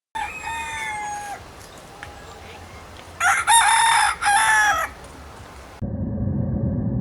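Rooster crowing: a shorter crow at the start, then a louder full crow a few seconds later. Near the end it cuts to a steady low rumbling noise.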